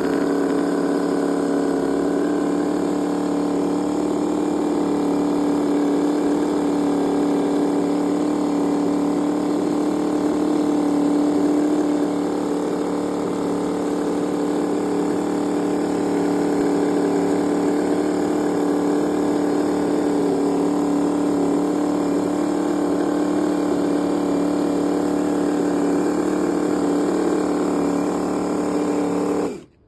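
ENJOMOR GS V8 PRO four-stroke scale-model V8 engine running at a steady speed, a smooth even hum that cuts off suddenly near the end.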